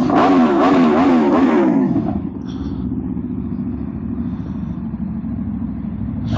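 An engine revving loudly, its pitch rising and falling several times over the first two seconds. Under it, and on its own after that, the Aprilia RSV4 1100 Factory's V4 engine runs steadily at low speed.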